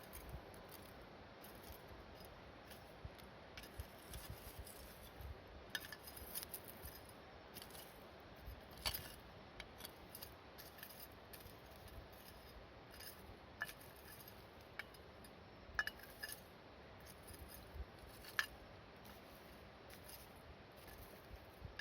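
Embers of a burnt-down campfire, faint irregular crackles and ticks over a low hiss.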